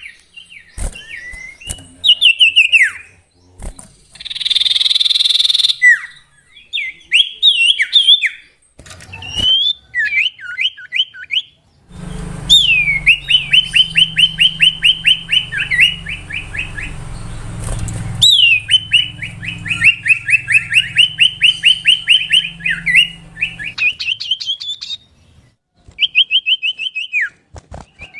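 Common iora (cipoh) singing: varied whistled phrases with quick downward-sweeping notes, a harsh buzzy call about four seconds in, then two long runs of rapidly repeated notes, about eight a second, from roughly twelve seconds on. A low hum sits under the long runs.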